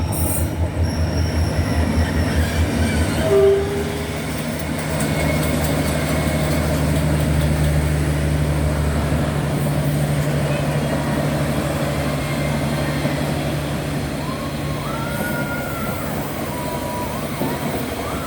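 Diesel-hauled passenger train running by: a steady low engine drone, with wheels clacking rhythmically over rail joints through the first few seconds. A brief tone sounds about three seconds in.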